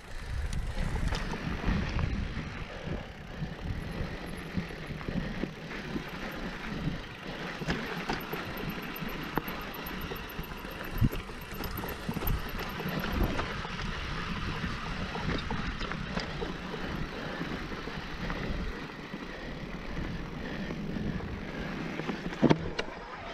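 Mountain bike rolling along a dirt trail: continuous noise of tyres and drivetrain, with a rumbling low end and a few sharp knocks from the bike over bumps, the loudest about halfway through and another near the end.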